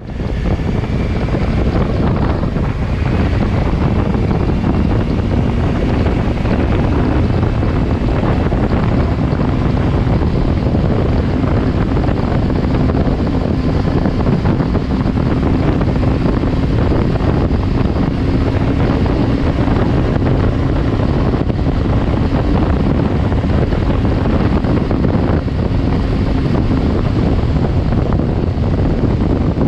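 Wind buffeting the microphone on a moving motorcycle, a loud steady rush, with a faint engine drone underneath that rises slowly in pitch.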